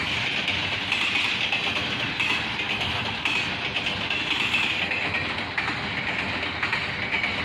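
Double-stack intermodal freight train's container-loaded well cars rolling past: a steady rolling rumble and rail noise, with steel wheels clicking over the rail joints now and then.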